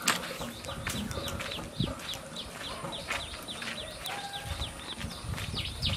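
Birds chirping over and over: short, high, falling chirps, several a second, with a brief steady whistled note about four seconds in.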